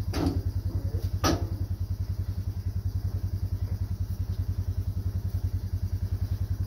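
A vehicle engine idling with an even, rapid low pulse, with two sharp knocks in the first second and a half.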